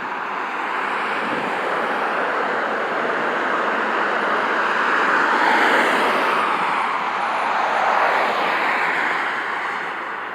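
Road traffic driving past: a steady tyre and engine noise that swells as vehicles pass, loudest about halfway through and again a couple of seconds later.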